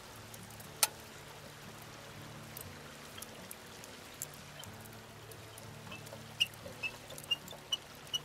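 River water running steadily, with a wood campfire crackling in sharp pops: one loud pop about a second in and a quick run of pops near the end.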